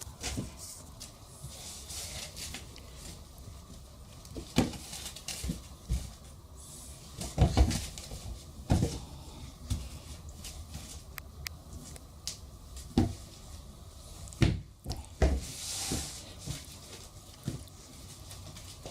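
Toys being handled during play: a few scattered knocks and thumps, irregularly spaced, over a low background.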